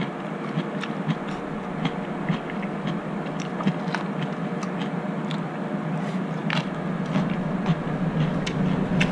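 Close-up chewing and biting of salad, with many small crisp crunches and mouth clicks scattered throughout, over a steady background hum.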